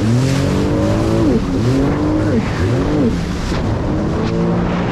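Jet ski engine revving up and down several times in quick succession as it runs over choppy waves, then holding a steadier pitch for the last second or so, under a constant rush of wind and water.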